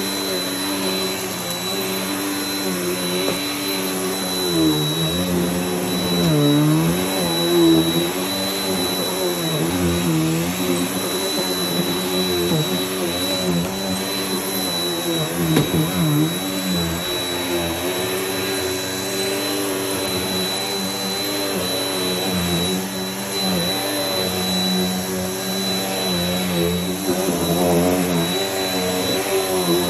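Vacuum cleaner running steadily over the floor, with a thin high whine above the motor. The motor note wavers and dips in pitch several times as the load on it changes.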